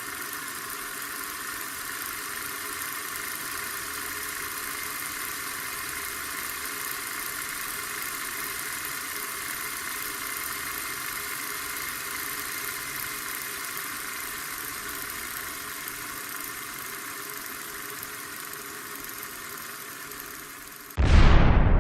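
A motor running steadily with an even, unchanging hum. Near the end it is cut off by a sudden, much louder sound with a falling sweep.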